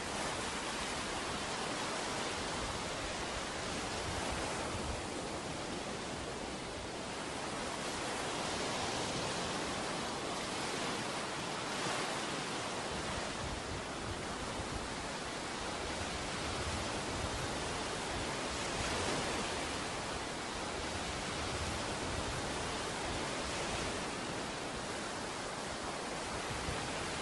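Ocean surf washing onto a beach: a steady rush of waves that swells gently now and then.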